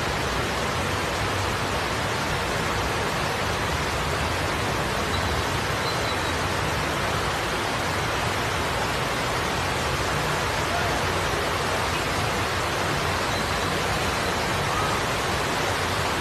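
A steady, even rush of water noise, unbroken and fairly loud.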